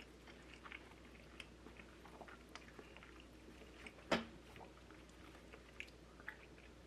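Close-miked chewing of sticky rice and meat, with soft wet mouth clicks. One sharper click comes about four seconds in.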